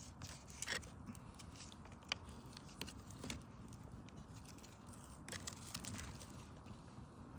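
Wood campfire crackling: a low steady hiss with irregular sharp pops and snaps, a few a second at most, none in a steady rhythm.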